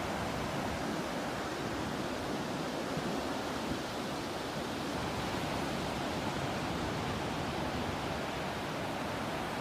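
Ocean surf and breeze: a steady, even rushing wash of noise with no distinct wave breaks.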